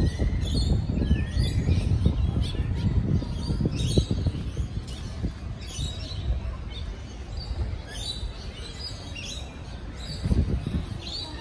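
Birds chirping and calling again and again in the trees: short sharp calls, with a few rising whistles near the start. Under them runs a steady low rumble.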